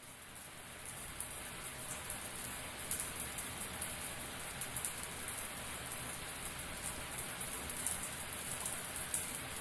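Running shower: water spraying and splattering steadily as a dense hiss of falling drops, fading up over the first second or so.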